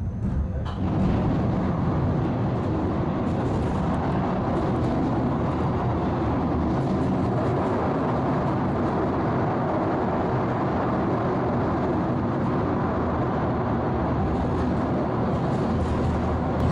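Carmelit underground funicular railway car running on its rails, a steady running noise that grows a little louder about a second in.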